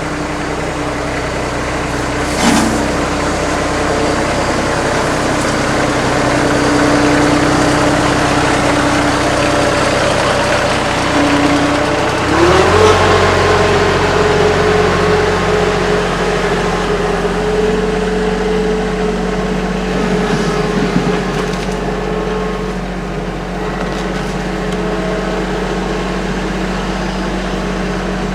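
Kubota tractor's diesel engine running steadily, with a single knock a couple of seconds in; about twelve seconds in the engine speed rises and holds at the higher pitch.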